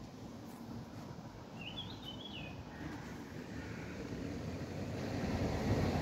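A bird gives one short chirp, quickly wavering up and down in pitch, about two seconds in, over a steady outdoor background rumble that grows louder toward the end.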